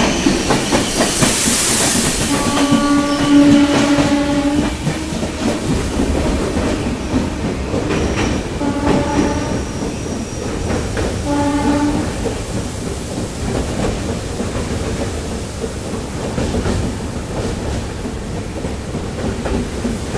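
A train running with a steady rumble and wheel clatter, and its horn sounding three times: one long blast, then two shorter ones. There is a brief hiss about a second in.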